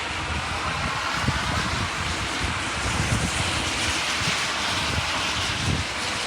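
Heavy rain and wind, with the hiss of a vehicle's tyres going by on the wet street, swelling towards the middle and fading near the end.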